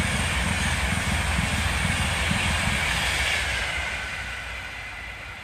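High-speed passenger train passing at speed, a steady rush of wheels on rail with a low rumble that fades from about three seconds in as the train draws away.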